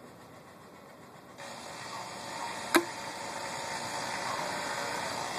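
A single sharp snap from a spring-powered Nerf pistol firing a dart, about two and three-quarter seconds in, over a steady outdoor hiss that grows louder about a second and a half in.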